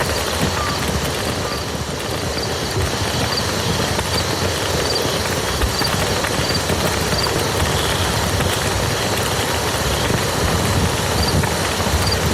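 Steady rain falling on a muddy field: a dense, even patter of drops. In parts there is a faint high double chirp repeating about twice a second.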